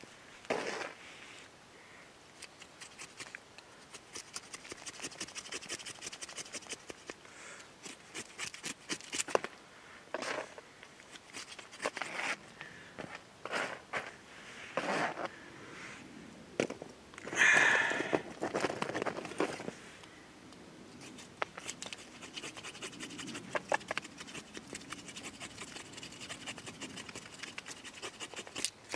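Small bushcraft knife working a log of firewood: a long series of short scraping strokes and light cracks as small pieces and shavings are taken off the wood, with one longer, louder scrape past the middle.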